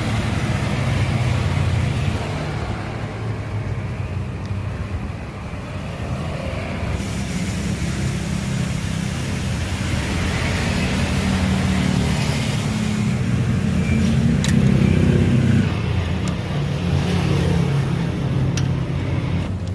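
A motor vehicle engine running steadily at low speed, its pitch shifting a little now and then.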